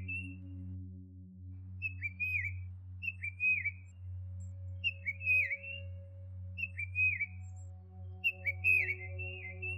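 A songbird whistling short slurred phrases, each dipping down and back up in pitch, repeated every second or so, sometimes in quick pairs. A steady low electrical hum runs underneath.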